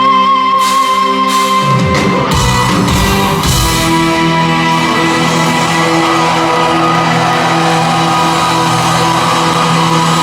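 Live rock band playing in a large hall: held chords, with a few heavy drum hits and cymbal crashes in the first four seconds, then a long sustained chord ringing out.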